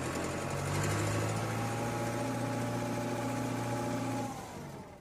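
Cartoon vehicle engine sound effect, running steadily and fading out near the end.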